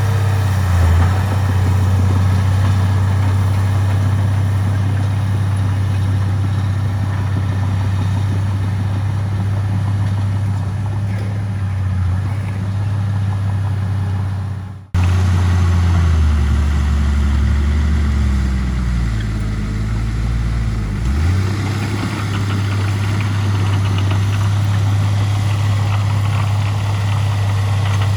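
Heavy diesel engine running steadily close by. About halfway through the sound cuts abruptly, then for several seconds the engine note drops lower and changes speed before settling back to the steady run.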